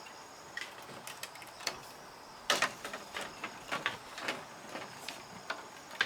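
Irregular light knocks and clatters of objects being handled, with a denser cluster about two and a half seconds in.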